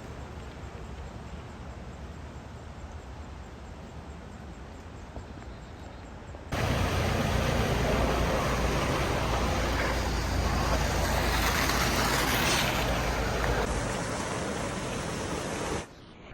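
Steady rushing noise of air over the microphone while riding a bike. It jumps abruptly to much louder about six and a half seconds in, eases slightly, then cuts off sharply near the end.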